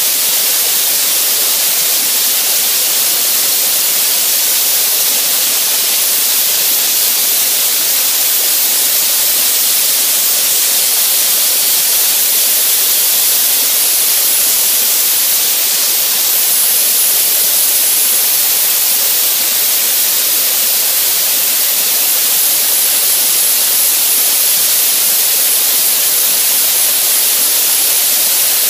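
Soda blaster nozzle hissing steadily and without a break as compressed air and baking soda media strip bottom paint from a steel hull.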